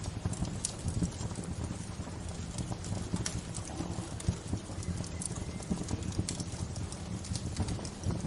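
Wood bonfire crackling: irregular sharp pops and snaps over a steady low rumble of burning flames.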